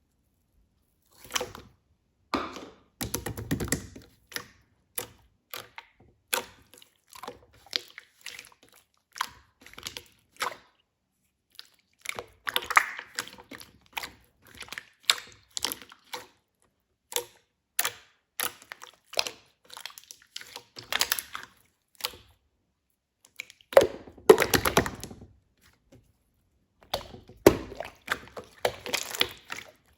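Irregular clicks, taps and knocks of small objects being handled close up in a small room, with a few short clusters of clatter; the loudest cluster comes a little past the three-quarter mark.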